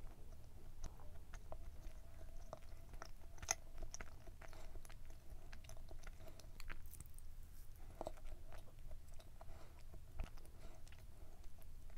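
A person chewing a mouthful of dense, chewy chocolate brownie muffin with the mouth closed: soft, moist chewing with scattered small clicks.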